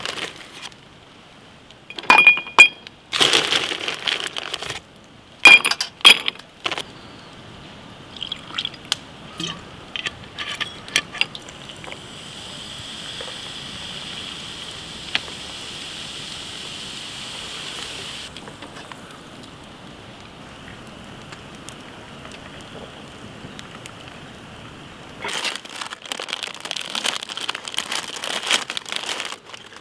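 Sharp clinks of a cup or glass, twice in the first six seconds, then liquid poured steadily into a cup for about six seconds, and near the end a run of quick crackling.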